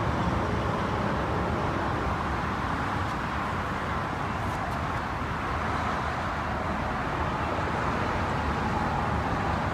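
Steady outdoor background noise: a constant low rumble like distant road traffic, with no single event standing out.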